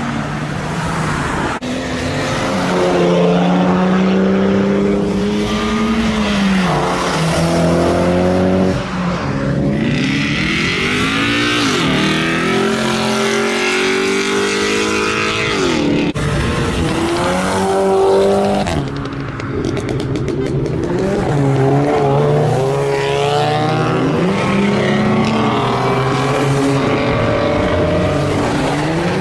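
Loud performance-car exhausts revving hard and accelerating, the engine pitch climbing and dropping again and again through gear changes and lifts off the throttle, with tyres squealing in the middle stretch.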